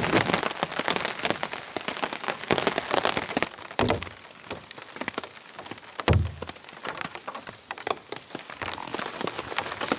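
Gentle rain falling, with many individual drops ticking sharply close by. Two dull low thumps stand out, about four and six seconds in.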